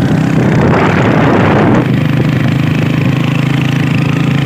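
Kawasaki motorcycle engine running steadily at a low, even pitch through a short-cut, modified exhaust. A louder rushing noise rides over it from about half a second to two seconds in.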